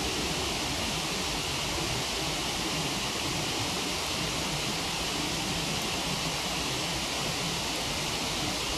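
Waterfall rushing: a steady, even hiss of falling water, with no distinct fire crackles standing out.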